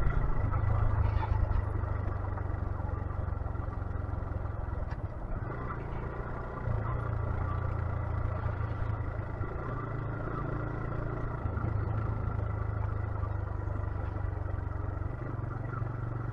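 125cc motorcycle engine running while riding, its low drone stepping up and down in pitch a few times as the throttle and gears change.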